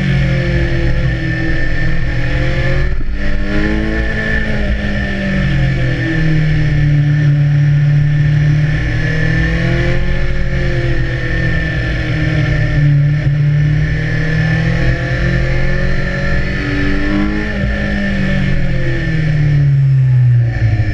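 BMW S1000R's inline-four engine pulling through a series of bends, its pitch rising and falling with the throttle, with a brief drop about three seconds in.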